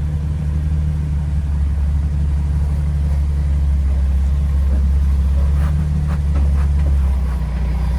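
Off-road Jeep's engine running at low, steady revs as it crawls up a sandstone ledge.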